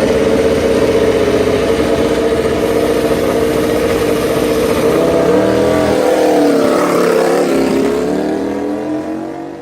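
Ducati MotoGP racing motorcycle's V4 engine running at high revs, holding a steady high note for about five seconds, then dipping and rising in pitch a few times before fading toward the end.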